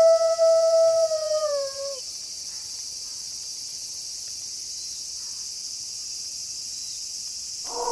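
Wolf howl held on one steady note, dropping in pitch as it ends about two seconds in, over a steady night chorus of crickets; a new, lower howl starts near the end.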